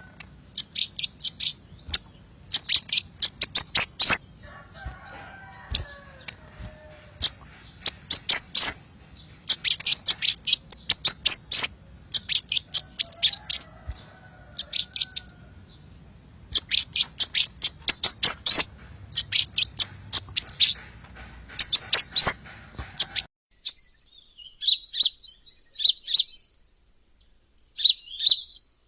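Sunbird ('burung kolibri') song used as a lure call: bursts of rapid, sharp, high-pitched chirps, each burst lasting a second or two with short pauses between. About two-thirds of the way through, the background hiss stops and the phrases turn softer and more warbled.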